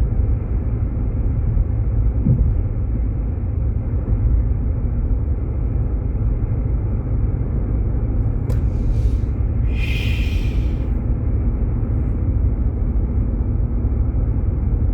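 Steady low road and engine rumble inside a moving Jeep Grand Cherokee's cabin, with a brief hiss about ten seconds in.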